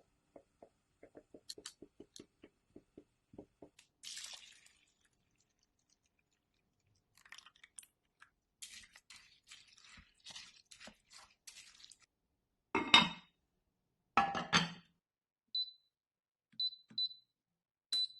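Kitchen food-preparation sounds with utensils and cookware. Soft rhythmic tapping comes first, then a brief rustle and a run of small scratchy clicks. Two loud clunks follow, then a few short high clinks near the end.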